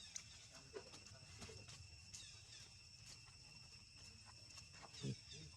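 Faint, steady drone of insects such as crickets, with a few soft clicks and short chirps and one low thump about five seconds in.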